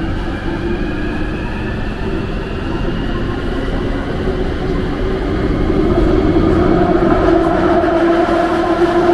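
London Underground Jubilee line train running on the tracks, its traction motors whining with a pitch that rises as it picks up speed, over a steady rumble that grows louder about six seconds in.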